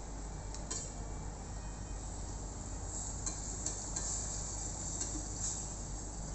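Flour being stirred in a pan on the stove to make a roux: a few faint clicks and scrapes of the utensil against the pan over a steady low hiss.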